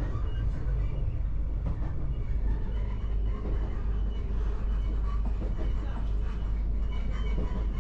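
A regional passenger train running, a steady low rumble with faint voices in the background.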